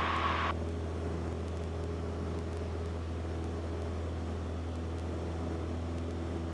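Cessna 172L's four-cylinder Lycoming engine and propeller droning steadily at high power after takeoff, heard in the cabin. A hiss cuts off sharply about half a second in.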